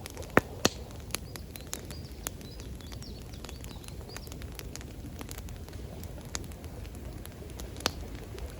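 Wood campfire crackling, with scattered sharp pops, two loud ones about half a second in and another near the end, over a steady low rush of water.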